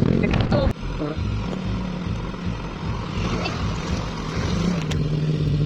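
Motorcycle engine running steadily while riding, with road and wind noise. The sound drops out abruptly for a moment about three-quarters of a second in.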